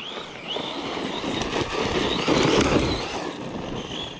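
Redcat Kaiju EXT electric RC monster truck running flat out on loose dirt: a wavering high motor whine over the noise of tyres churning dirt, loudest about two to three seconds in.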